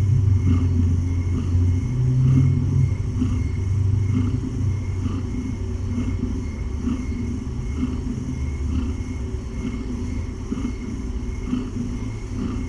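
Domestic cat purring close to the microphone: a steady low rumbling purr that swells about once a second with her breaths.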